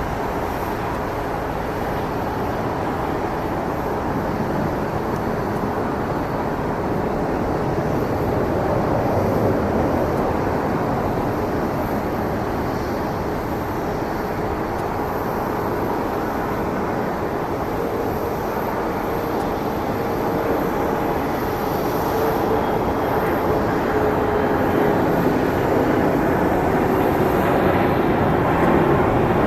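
Bombardier CRJ-700 jet's two rear-mounted GE CF34-8C turbofans running at takeoff thrust: a continuous loud rush of engine noise with a steady underlying hum, slowly growing louder towards the end.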